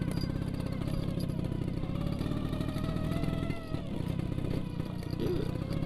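Vespa scooter engine running under way, its note climbing gradually and briefly easing off about three and a half seconds in.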